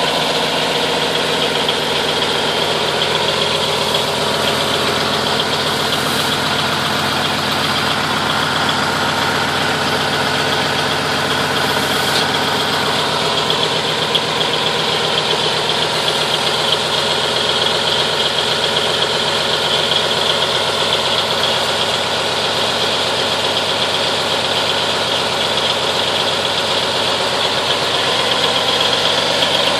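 Cummins diesel engine of an M931 5-ton military tractor truck idling steadily soon after a cold start in freezing weather, while the air brake system builds pressure. Two faint clicks come about 6 and 12 seconds in.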